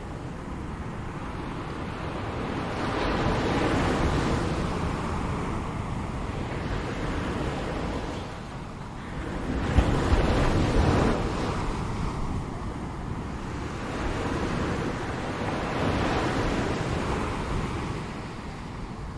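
Ocean waves breaking and washing on the shore in slow swells. The biggest wave comes about halfway through, with a sharp crack as it breaks. Wind rumble on the microphone runs underneath.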